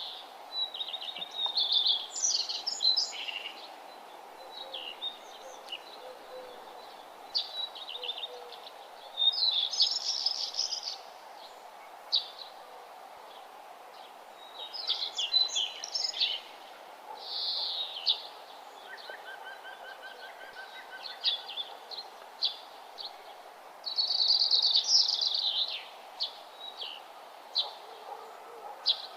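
Songbirds singing in short, high chirping and trilling phrases that come every few seconds, over a steady background hiss.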